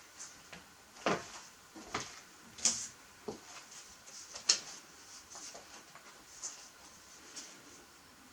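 Irregular taps and knocks of redpolls pecking and hopping at a feeder, the loudest about a second in and about four and a half seconds in, with faint high chirps between them.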